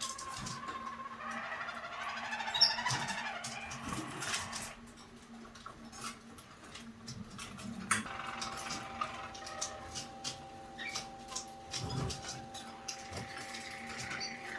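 Harz roller canary singing its soft, rolling song, with a quieter pause of a few seconds in the middle; about halfway through a long, even held note starts and runs under the song. Light clicks are scattered throughout.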